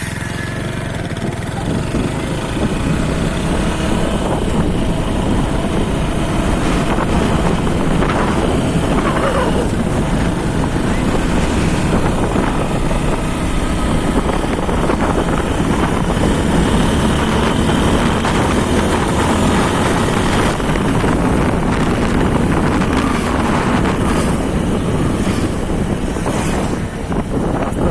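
TVS Apache RTR 160 4V's single-cylinder engine running steadily while the motorcycle is ridden, mixed with wind buffeting the microphone.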